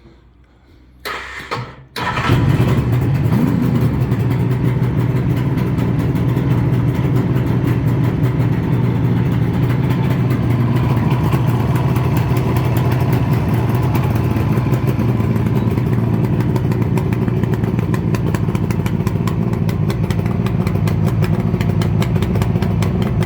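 1976 Suzuki GT750A's two-stroke three-cylinder engine, freshly rebuilt with new crank bearings, con rods and a rebore, is briefly cranked, catches about two seconds in and settles into a steady idle, running sweetly.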